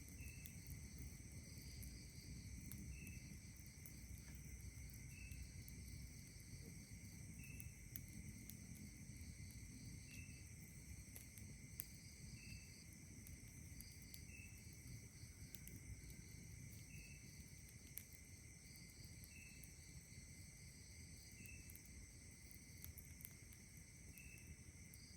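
Faint night insect chorus: steady, high-pitched layered trilling, with a short call repeating about every two seconds, over a low rumble. A few faint, sharp clicks stand out, the loudest about halfway through.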